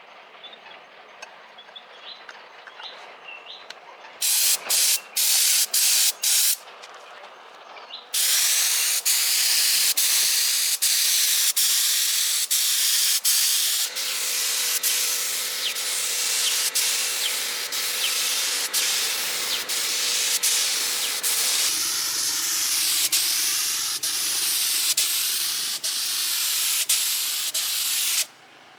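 Compressed air hissing from an air gun: a few short blasts, then a long continuous spray broken by brief cuts.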